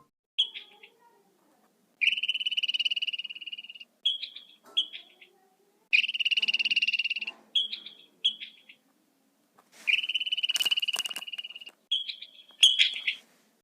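A frog calling: three long, rapidly pulsed high trills of about two seconds each, with short chirps between them and a few sharp clicks during the last trill.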